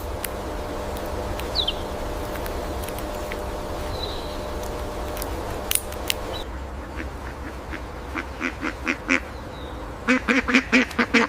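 Steady hiss with a low hum and a few clicks, then from about 7 s in a chinstrap penguin's loud squawking call: a rapid, rhythmic series of short braying squawks that grows louder toward the end.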